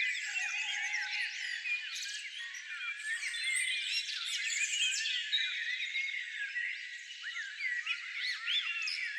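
A dense chorus of many small songbirds chirping and twittering at once, with countless short overlapping high calls and quick pitch glides and no single bird standing out.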